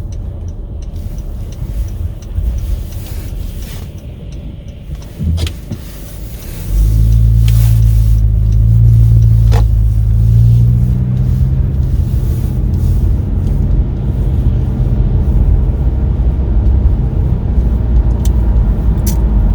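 Car driving, heard from inside the cabin: a steady deep rumble of engine and road noise. About seven seconds in it gets much louder, with a low hum that rises slightly in pitch for a few seconds and then holds steady.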